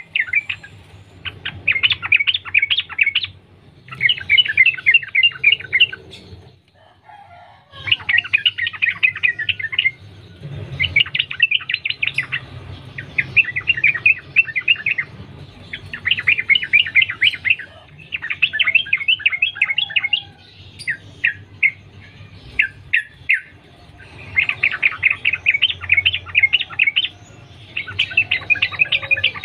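Yellow-vented bulbul (trucukan) singing in a long run of chattering phrases. Each phrase is a rapid string of notes lasting a second or two, and they follow one another with short pauses, with a longer pause about seven seconds in.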